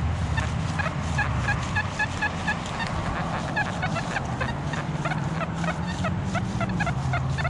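Metal detector audio chattering as it sweeps over trash-filled ground: rapid short high beeps, about four or five a second, over a wavering low tone.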